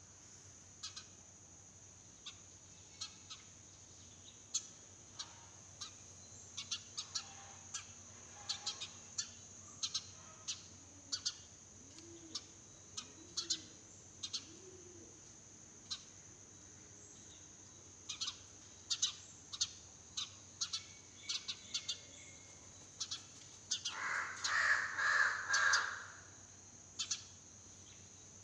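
Sparrows chirping in short, scattered bursts, over a steady high whine. A few low coos come about 12 to 14 seconds in. A crow gives a loud, harsh cawing stretch near the end, about 24 to 26 seconds in, the loudest sound here.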